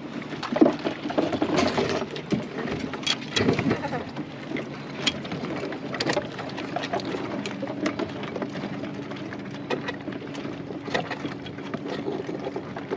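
Scattered clicks, knocks and scrapes of Dungeness crab shells, claws and pot gear being handled as crabs are taken out of a crab pot, over a steady low hum.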